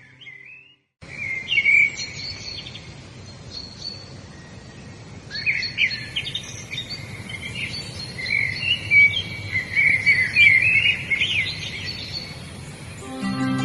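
Several songbirds chirping and trilling in quick, overlapping phrases over a steady outdoor noise bed, with a thin high steady insect-like buzz joining about halfway. Soft instrumental music fades out within the first second and comes back in near the end.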